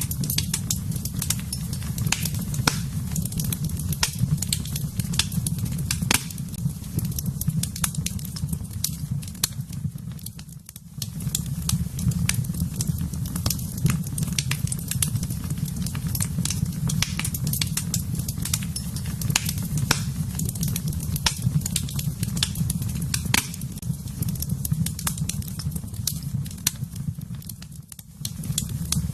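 Wood fire in a fireplace crackling, with frequent sharp pops and snaps over a steady low rumble of flames. The sound briefly drops away twice, about ten seconds in and near the end.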